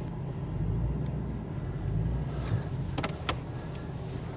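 Diesel pickup truck running with a steady low rumble while towing a car trailer. Two sharp clicks come about three seconds in.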